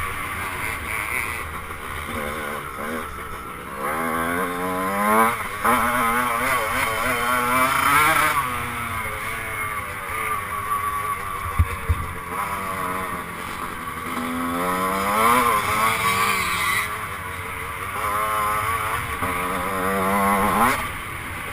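1996 Honda CR125 125cc two-stroke single-cylinder engine, ridden hard, revving up and falling back repeatedly as the rider shifts gears and rolls off the throttle. There is a short knock about halfway through.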